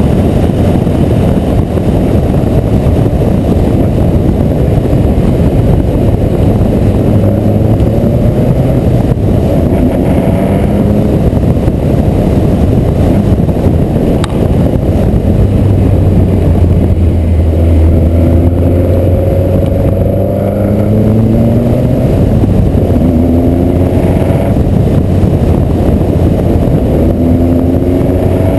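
VW Corrado race car's 2.0 16-valve four-cylinder engine under hard acceleration. Its pitch climbs several times and drops back at each gear change, over a heavy, constant rumble.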